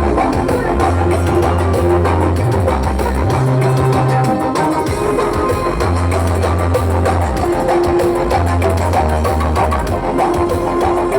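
Music blasting from a large parade sound-system rig, with heavy sustained bass notes that shift pitch every second or two.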